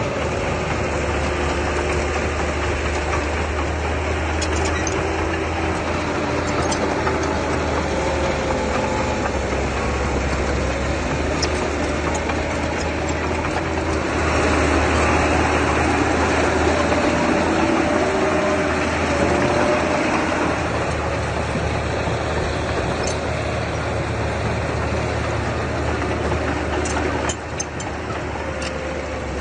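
Engine of an earthmoving machine running steadily, growing louder for about six seconds midway and then settling back.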